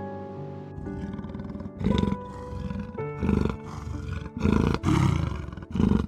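Jaguar giving five harsh, roaring grunts, the first about two seconds in and the rest following at uneven intervals of about half a second to a second and a half.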